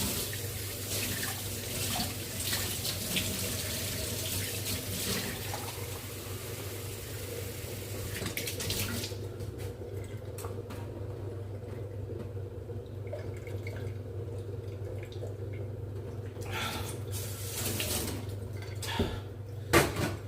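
Water running from a tap for about nine seconds, then shut off. Near the end come a few sharp knocks, and a steady low hum sits under everything.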